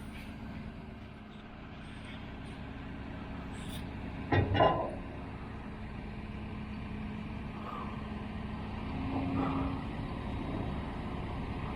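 Heavy diesel engine of construction machinery running steadily. A brief loud double burst comes about four and a half seconds in.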